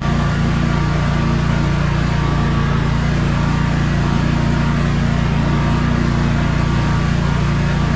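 Sabre by John Deere lawn tractor's twin-cylinder engine running steadily during a test mow, a healthy, even sound.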